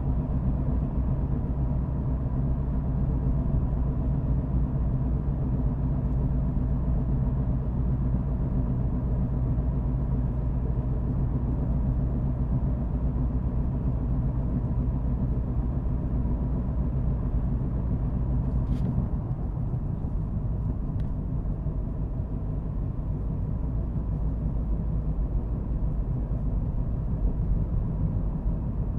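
Car driving with a steady low engine and tyre rumble that eases slightly about two-thirds of the way in, with two faint clicks around then.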